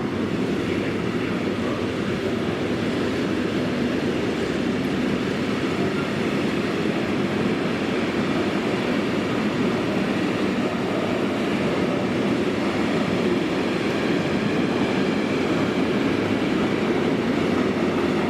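A train running past on the line: a steady rumble that grows slightly louder toward the end.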